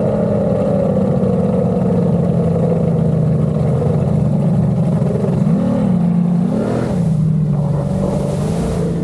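Twin built 2.4-litre Mercury V6 racing outboards running hard at speed. The engine note eases down slightly at first, then holds steady with two short rises in revs a little past the middle.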